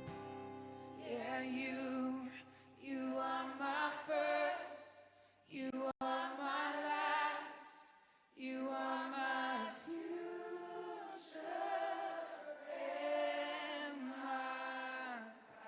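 Worship song sung by voices in long held phrases with vibrato, with short pauses between them. A low sustained accompaniment drops away about six seconds in.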